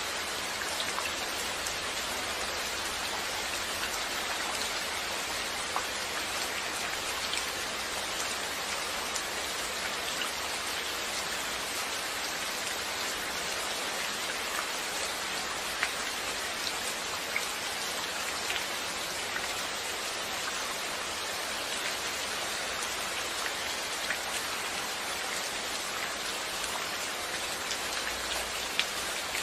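Steady rainfall, a dense even hiss of drops striking a surface, with scattered individual drop ticks standing out now and then.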